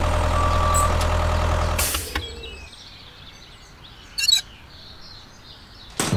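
A tractor engine runs steadily with a low drone for about two seconds, then cuts off abruptly. After it there is a quieter outdoor background with faint bird chirps, a short rustle about four seconds in, and a sharp click near the end.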